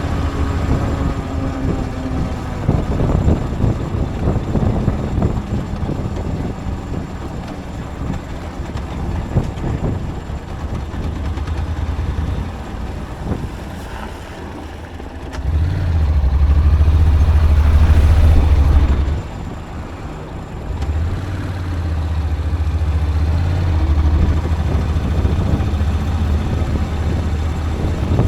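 Low rumble of a vehicle on the move, with engine and road noise. It grows louder for a few seconds just past the middle, dips, then swells again.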